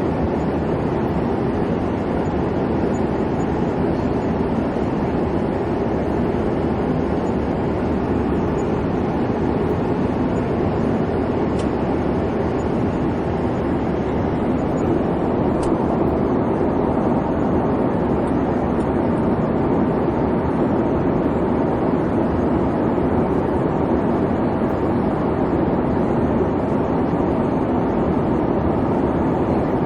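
Steady airplane cabin noise in flight: an even, low rumble and hum of the engines and airflow, unchanging throughout.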